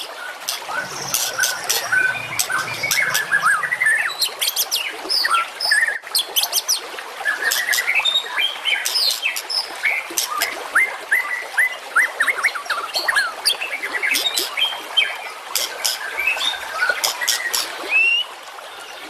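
Recorded songbird song: a dense, nonstop run of fast chirps, sharp clicking notes and short slurred whistles. This is masteran training song meant to teach caged white-rumped shamas new phrases.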